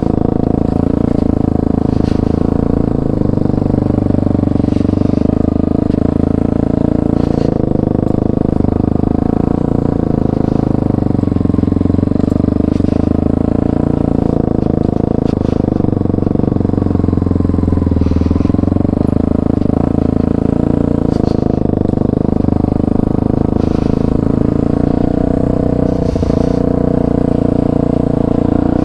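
Motorcycle engine running at fairly steady revs throughout, with a low rumble of wind on the microphone.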